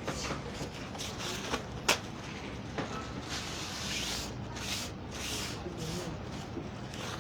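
Kitchen items being handled and set down on a counter: several light knocks and clicks in the first few seconds, then rustling, over a steady background hum. A faint voice murmurs briefly near the end.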